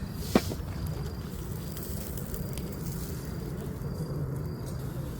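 Charcoal fire crackling steadily under grilling mackerel, with one sharp click about half a second in.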